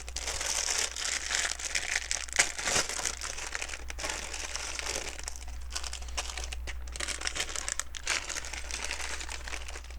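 Hands rummaging through small plastic LEGO pieces: a continuous crinkling rustle dotted with many small clicks of bricks knocking together.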